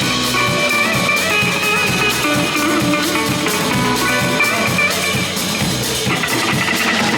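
Live band playing psychedelic cumbia: a guitar melody over a drum kit keeping a steady, regular beat.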